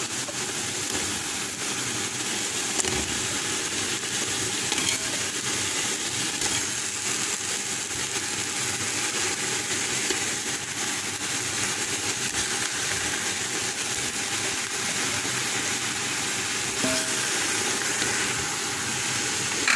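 Chicken pieces sizzling in a hot pot of oil, spices and tomato paste: a steady hiss.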